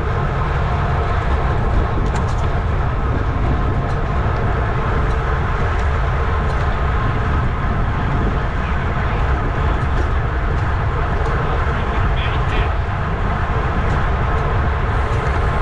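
Wind rushing over an onboard camera's microphone on a racing bicycle at speed: a loud, steady low rumble with road and drivetrain noise mixed in.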